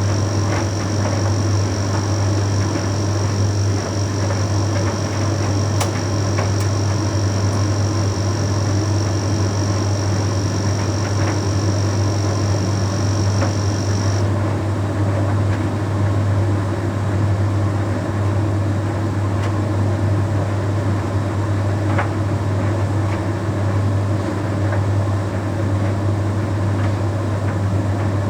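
Bosch Series 6 heat pump tumble dryer running mid-cycle: a steady low hum with a continuous rushing noise from the turning drum and fan, and a few faint ticks. A thin high whine cuts off suddenly about halfway through.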